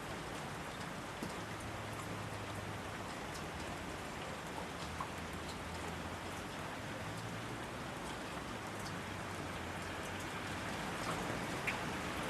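Steady rain falling, with scattered individual drops ticking close by; it swells slightly near the end.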